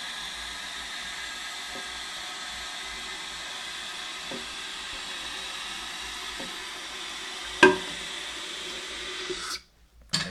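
Toilet cistern refilling through a Fluidmaster universal fill valve: a steady hiss of water running in, with one sharp click near the end. The hiss stops abruptly shortly before the end.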